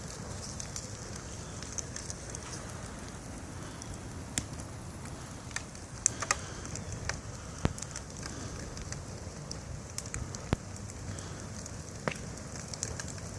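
Fire burning a tube TV set, crackling steadily with a handful of sharp pops scattered through, the loudest about six and eight seconds in.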